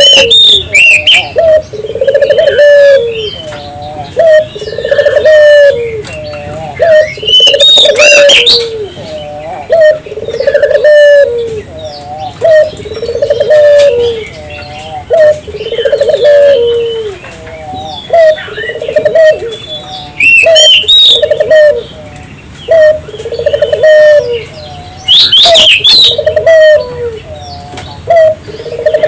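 Puter dove (Barbary dove) cooing over and over, loud and persistent, one coo roughly every two seconds. Higher chirps from smaller birds sound between and over the coos.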